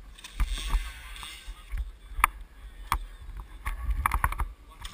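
2008 Yamaha YZ450F four-stroke single-cylinder motocross bike heard muffled through a GoPro waterproof housing: a low rumble with irregular sharp knocks and rattles.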